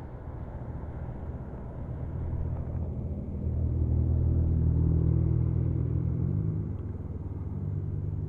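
Motorcycle engine running under way on a wet road, getting louder about three and a half seconds in, with its note rising about six seconds in, over a steady hiss of road noise.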